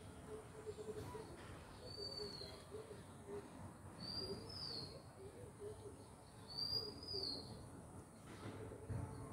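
A bird calling: short, high whistled notes that rise and fall, one at first and then in pairs, every two seconds or so, faint against a low background chatter.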